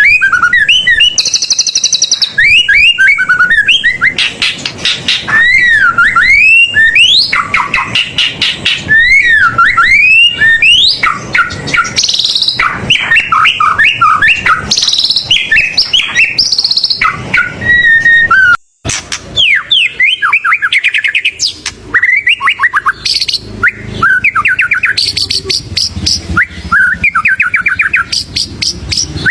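White-rumped shama singing a loud, continuous, varied song full of mimicked phrases: sweeping whistles, rapid repeated notes and fast trills. The song cuts out for an instant about two-thirds of the way through.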